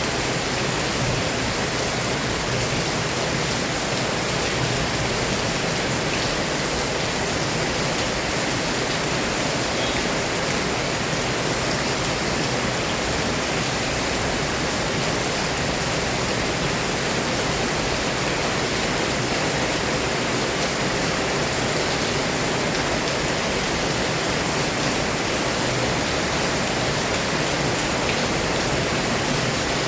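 Heavy rain pouring down in a steady, unbroken hiss, with faint ticks of individual drops.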